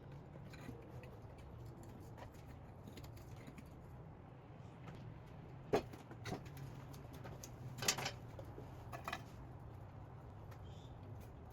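Scattered light clicks and taps over a faint steady low hum; the sharpest click comes a little past the middle and a short cluster of clicks follows about two seconds later.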